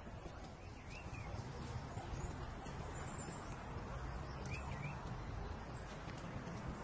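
Outdoor ambience: a few short bird chirps over a steady low rumble and hiss.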